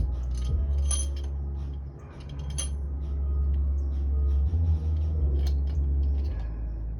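Metal tools and engine parts clinking with several sharp, ringing clinks, over bass-heavy background music.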